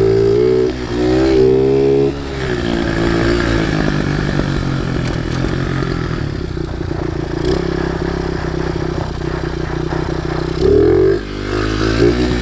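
Chinese pit bike's small single-cylinder four-stroke engine running on its stock exhaust while ridden. It revs up about a second in and again near the end, and in between it holds a steady drone. The engine hangs at high revs and keeps pulling on its own, a fault the rider can't figure out.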